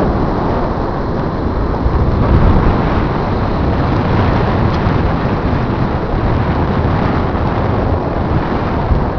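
Strong wind buffeting the microphone, a loud, steady rumble that rises and falls a little in gusts.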